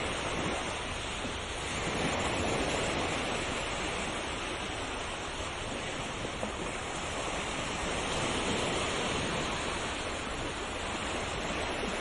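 Ocean waves washing onto a shore, a continuous surf hiss that swells and eases gently every few seconds.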